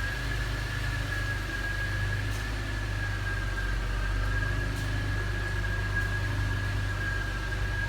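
Chevrolet 2.8-litre V6 engine idling steadily, with a thin steady high whine running over the low rumble.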